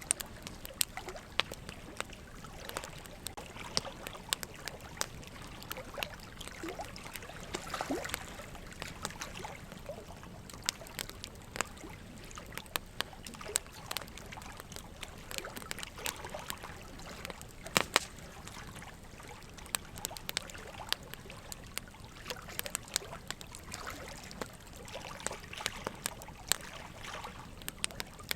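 Wood fire crackling: irregular sharp pops and snaps over a steady hiss, with a couple of louder pops about two-thirds of the way through.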